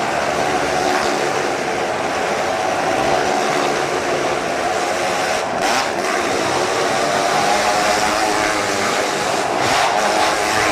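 Motorcycle engines running hard and wavering in pitch as the bikes circle the Wall of Death drum, the sound swelling twice, about four seconds apart, as a bike passes close.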